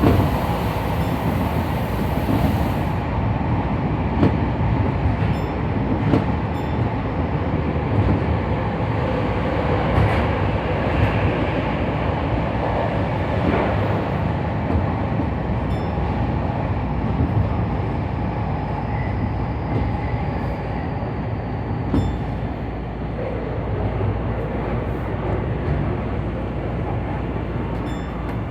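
Tokyu Den-en-toshi Line electric commuter train running, heard from the front car: a steady rumble of wheels on rail with a few sharp clicks.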